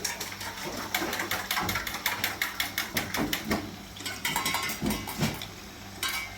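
A rapid run of sharp knocks or clatters of hard objects, several a second, for about two and a half seconds, then a few more knocks.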